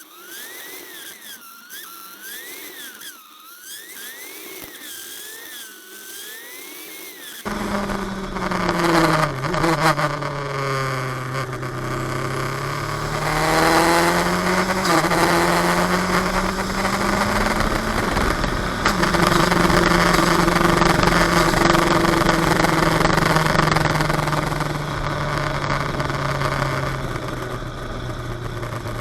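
A faint wavering whine that rises and falls about once a second, then an abrupt switch about seven seconds in to a race car's engine running hard at track speed. Its revs fall and climb again and again through braking, gear changes and acceleration.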